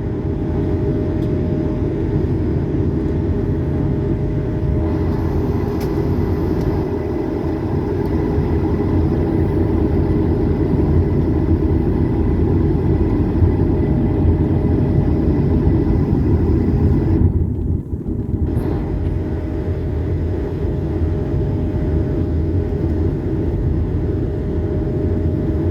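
Airbus A220's Pratt & Whitney PW1500G geared turbofans running steadily, heard inside the cabin as a loud, even low rumble with a faint steady whine. About two-thirds through, the sound is briefly dulled for about a second.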